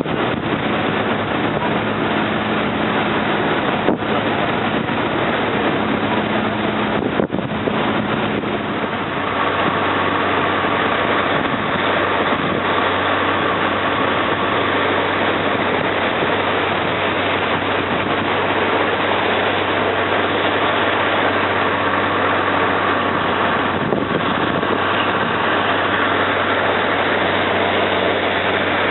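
Slow riverboat's engine running steadily under loud, even noise, its humming tone changing about nine seconds in. There are a couple of brief knocks in the first half.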